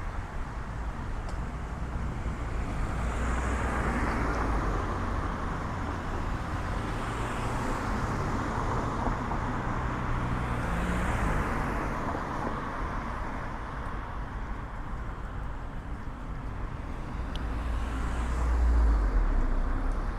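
Road traffic: several cars pass one after another, each swelling up and fading, the loudest with a low rumble near the end.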